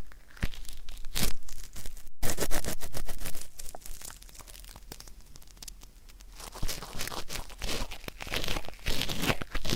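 Close-up ear pick scraping at stuck earwax, a dry crackling and rasping in quick strokes: busy at first, quieter in the middle, then busy again, with a brief dropout about two seconds in.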